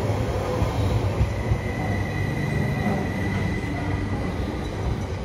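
Sm5 (Stadler FLIRT) electric commuter train moving along a station platform, with a steady low rumble of wheels and running gear. A thin, high wheel squeal rises out of it about two seconds in and fades a second later.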